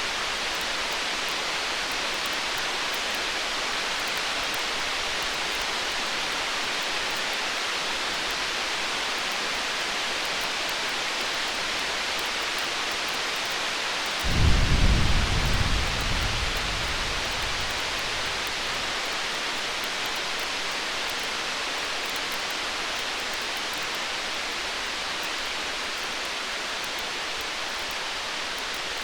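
Distant thunder: one low rumble breaks in suddenly about halfway through and fades away over a few seconds, over a steady rain-like hiss.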